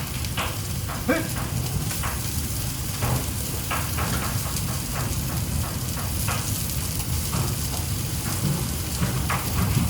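Food sizzling in hot oil: a steady hiss with scattered crackles and pops.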